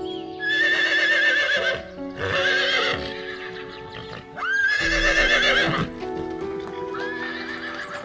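Horse whinnying four times, each a high, wavering call of about a second. Calm background music plays under it.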